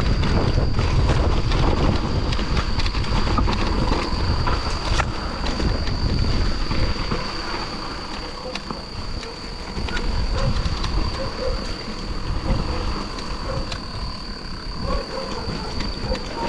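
A bike rolling over a rough, rutted trail: steady rumble with many rattles and knocks, wind on the microphone, and a thin high whine running underneath.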